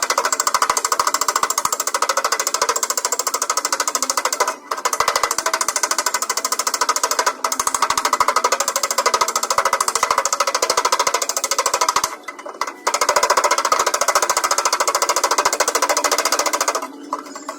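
Power tool working on a car's body panel: a rapid, rattling pulse that keeps going and stops briefly three times.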